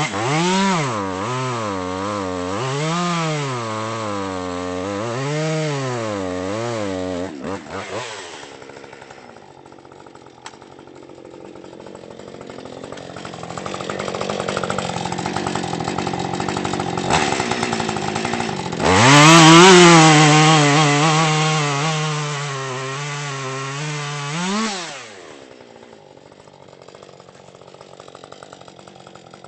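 Husqvarna 550 XP two-stroke chainsaw cutting firewood. For the first eight seconds the engine pitch rises and falls repeatedly, then it drops quieter. About nineteen seconds in it runs loud and steady at high revs for about six seconds before winding down.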